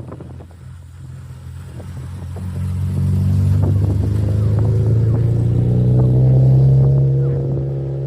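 A car's engine and exhaust with a deep note, growing louder over the first three seconds, then holding loud while its pitch climbs slightly, and easing off a little near the end.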